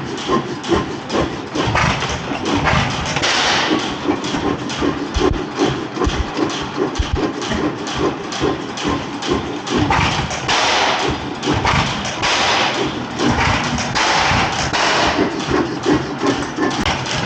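15 hp Galloway hit-and-miss stationary engine running with a steady, rhythmic thumping clatter. The sound swells louder a few times, about three seconds in, around ten to eleven seconds, and around fourteen to fifteen seconds.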